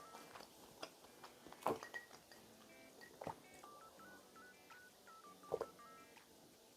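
Faint background music, a simple melody of short beeping notes, with a few sharp clicks and mouth sounds of eating. The loudest of these come about two seconds in and again near the end.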